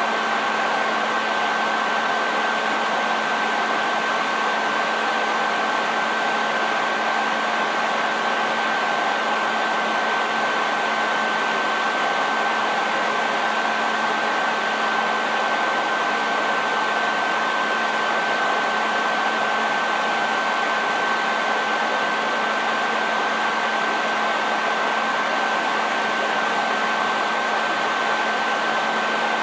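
Hair dryer running continuously at a steady speed: an even rush of air with a steady high whine from the motor and a lower hum underneath, never changing.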